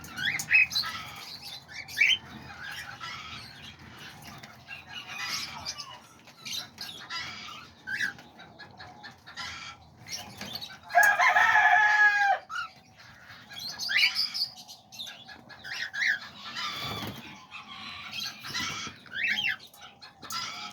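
Aviary of small parrots (parakeets, lovebirds and cockatiels) chirping and chattering, with one loud, drawn-out call about eleven seconds in.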